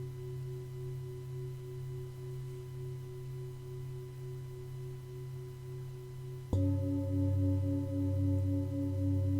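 Singing bowls ringing in long, pure tones that pulse with a slow wavering beat. About six and a half seconds in, another bowl is struck and rings out louder, adding a deeper tone.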